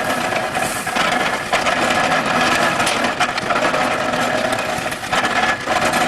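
Stationary hay baler clattering and rattling as it runs, driven by a large eccentric off a John Deere tractor's power takeoff, with the tractor engine running underneath.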